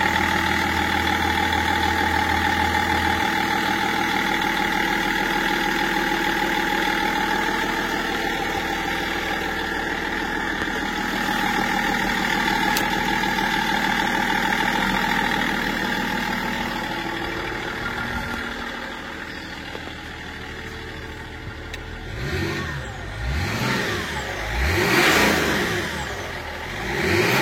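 An engine running at a steady speed, then its pitch sweeping up and down several times near the end, as when revving.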